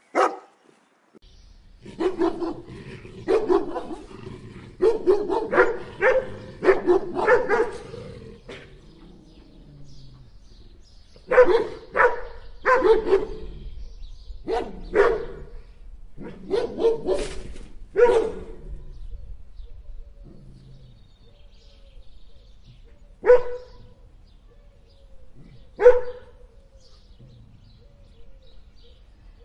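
A dog barking in short, sharp barks: a quick run of barks over several seconds, a second run a few seconds later, then two single barks spaced apart near the end.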